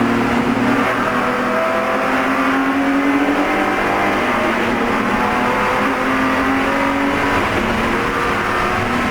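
Spec E46 BMW race car's inline-six engine running hard at racing speed, its pitch rising and falling several times as it accelerates and lifts.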